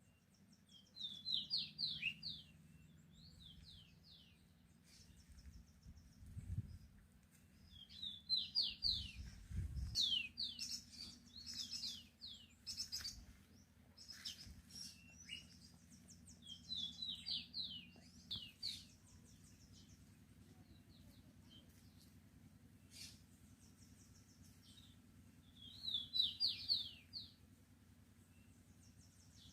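A small songbird singing in short bursts of rapid, quick-sweeping chirps, with about five phrases separated by pauses, over a faint steady low hum.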